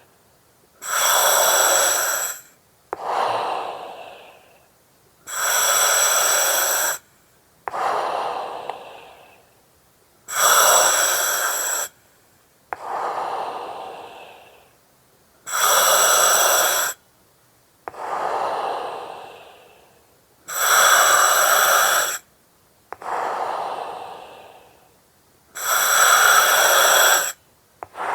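Slow, regular breathing through an oxygen mask, about one breath every five seconds: a steady hiss of about two seconds alternates with a breath that starts sharply and fades away.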